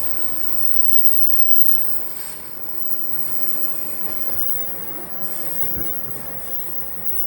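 Train moving along the platform track: a steady rumble of wheels on rail with a high-pitched hiss-like squeal over it.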